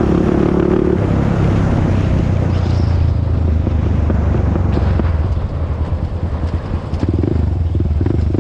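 Honda TRX400EX ATV's single-cylinder four-stroke engine running while riding. The engine note drops about a second in as the throttle eases, runs lower and uneven past the middle, then picks up again near the end. Wind on the microphone.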